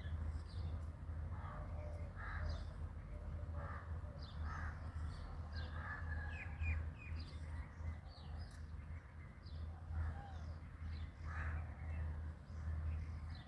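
Several birds chirping and calling in short, scattered notes, with crow-like caws among them, over a steady low hum.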